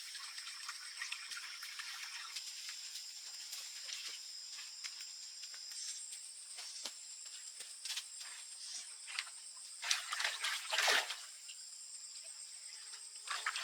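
Rainforest insects trilling steadily at a high pitch, with scattered small clicks and a couple of louder, brief noisy bursts about ten seconds in.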